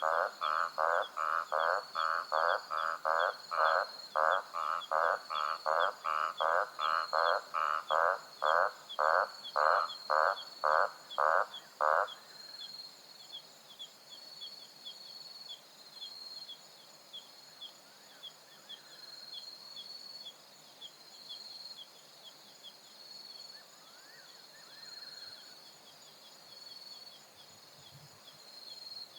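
A frog calling in a steady series of short croaks, about two a second, that stops abruptly about twelve seconds in. Insects chirp steadily throughout.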